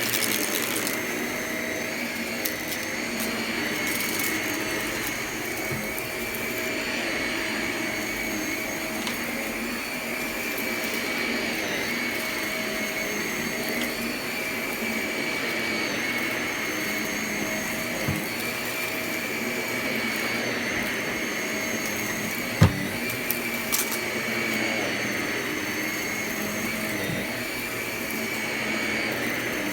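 Vacuum cleaner running steadily with a high whine, picking up crunchy debris from the floor, with a few sharp clicks and ticks as bits are sucked in, the loudest about two-thirds of the way through.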